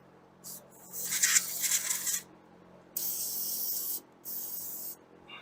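Greasy bolts being scrubbed with a rasping rub for about a second, then two bursts of hissing aerosol cleaner spray, the first about a second long and the second shorter.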